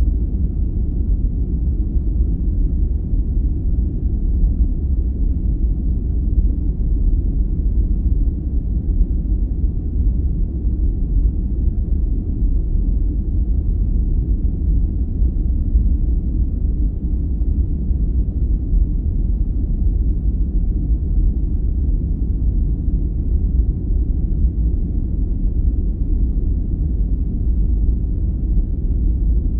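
Steady sleep noise, a deep and even rumbling hiss that is mostly bass with little high-pitched hiss, unchanging throughout.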